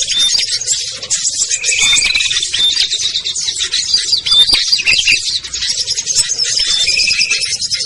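A dense chorus of many small songbirds chirping and calling over one another, with short whistled notes standing out: a mixed small-bird lure recording used to call down wild small birds.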